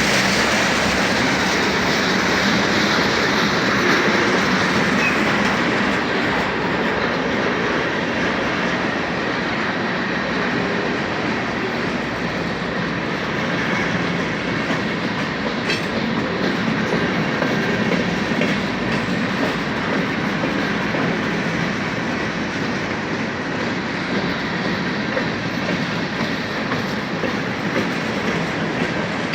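BNSF freight train rolling past, a steady loud rumble of steel wheels running on the rails.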